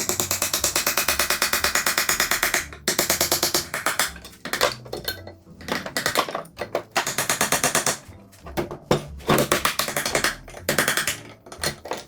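Rapid hammer blows, about seven a second, in a long run and then in stop-start bursts, as a lump hammer drives the seized pistons out of a 1964 Peugeot 404 engine block. Background music plays underneath.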